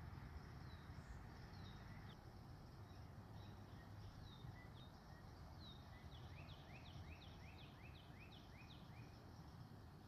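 Near silence with a faint low background rumble and a bird chirping: scattered short falling chirps, then a quick run of about eight rising chirps in the second half.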